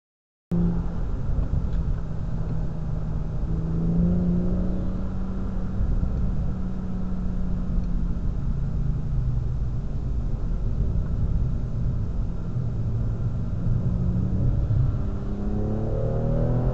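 BMW M240i's turbocharged inline-six engine running under way, with tyre and road noise, heard from inside the cabin. The sound cuts in about half a second in; the engine note holds fairly steady, then rises as the car accelerates near the end.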